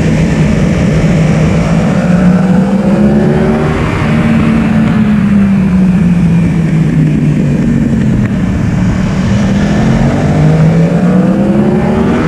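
Yamaha R1 inline-four sportbike engine running hard on track, its pitch climbing, easing off through the middle, then climbing again near the end as the rider accelerates, rolls off and accelerates again, with wind rushing past the onboard microphone.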